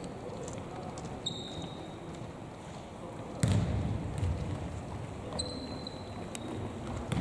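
Basketball play in a gym: short high squeaks of sneakers on the hardwood court about a second in and again around five seconds, and a ball bounce about three and a half seconds in, over the hall's steady background noise.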